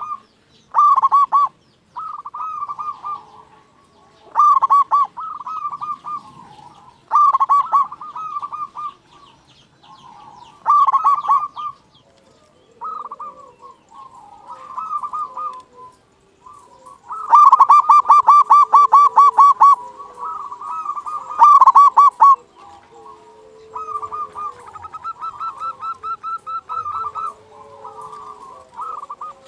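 Zebra dove (local perkutut) singing: repeated phrases of rapid, rolling staccato coos with short pauses between them. A louder, longer rolled run comes about 17 seconds in.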